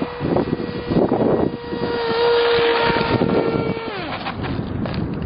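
RC fighter plane's motor whining at a steady high pitch, then winding down about four seconds in, with wind buffeting the microphone.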